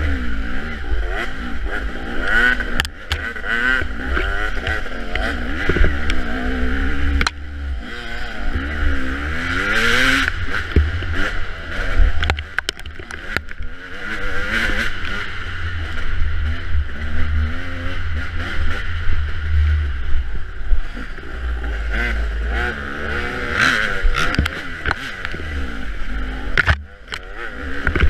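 Dirt bike engine revving up and down over and over as it is ridden through an off-road race course, with wind buffeting the microphone.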